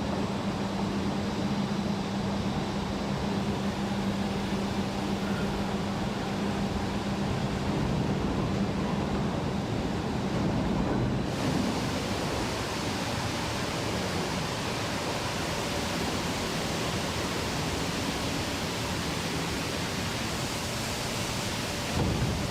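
Steady industrial noise in a steel hot-rolling mill, a rushing roar with a low hum under it. About halfway through the sound changes suddenly to a brighter, hissing rush.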